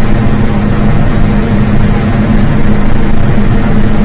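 A loud, steady low hum like a running engine, unchanging throughout, with no speech over it.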